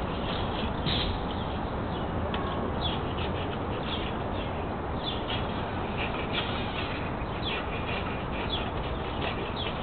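Small birds chirping repeatedly in short, high notes, about two a second, over a steady background hiss.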